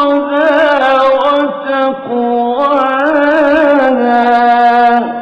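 A male reciter chanting the Quran in the melodic mujawwad style: long held notes with wavering ornaments in two phrases, with a short break for breath about two seconds in.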